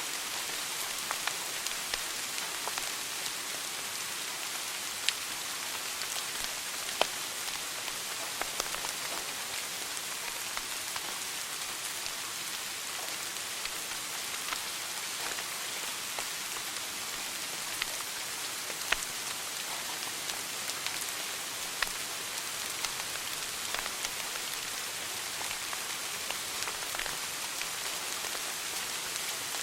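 Wood fire burning in a fireplace: a steady hiss with frequent small crackles and a few louder pops scattered throughout.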